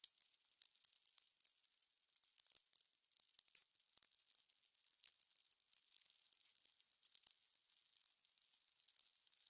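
Fire crackling: irregular sharp pops and snaps over a soft steady hiss, with no rhythm.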